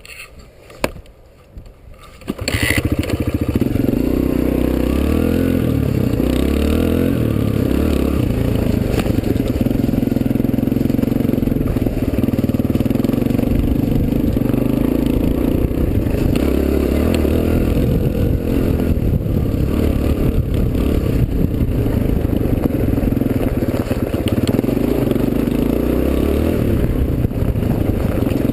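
Suzuki DR-Z125L dirt bike's small single-cylinder four-stroke engine. After a quiet start with one click, it comes in loud about two seconds in and runs on, its pitch rising and falling with the throttle through the ride.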